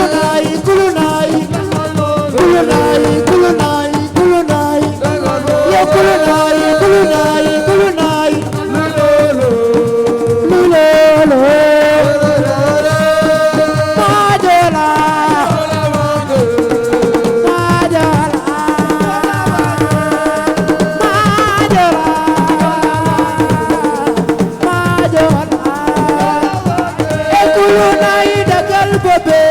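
Live Senegalese assiko music: a sung melody with sliding notes over a steady beat of hand drums, loud and without a break.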